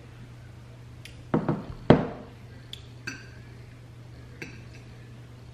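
Cutlery clinking and knocking against a dish during a meal: a handful of sharp clicks, the loudest about two seconds in, over a steady low hum.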